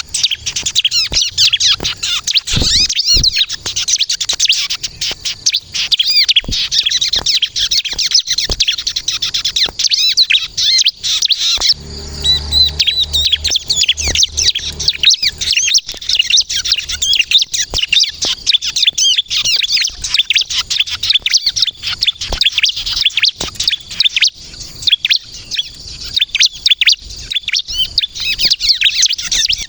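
Ciblek kristal (bar-winged prinia) singing vigorously in a rapid, unbroken run of high chirps and trills. The song drops away briefly about twelve seconds in, where a low rumble shows, then picks up again.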